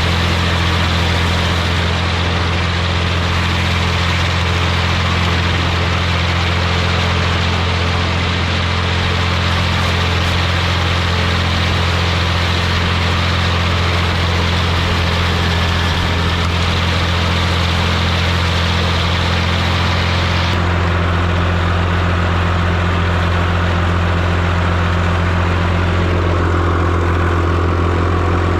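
Massey Ferguson 245 diesel tractor engine running steadily at a constant speed. About two-thirds of the way through its tone changes, with a deeper low note coming in and less hiss on top.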